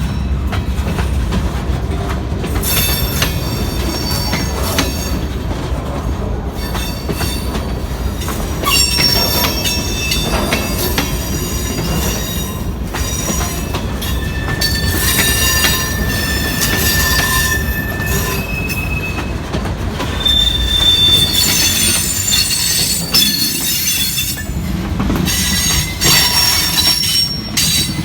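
A train rolling past at close range: a steady low rumble of wheels on rail, with high-pitched steel wheel squeal whose pitches keep coming and going.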